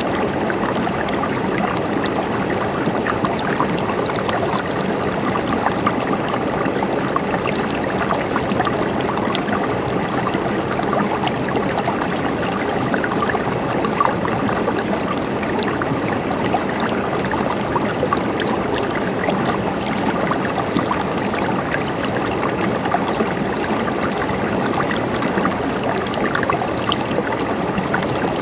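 Flowing water, like a small stream, running steadily with a constant trickling, splashing texture.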